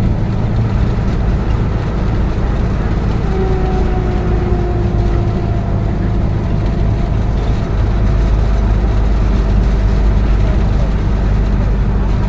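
Steady engine and road rumble inside a moving bus, louder from about eight seconds in, with a faint drawn-out tone a few seconds in.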